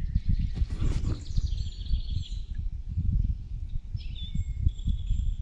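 Wind gusting over the microphone, with songbirds singing above it in the first couple of seconds and again near the end.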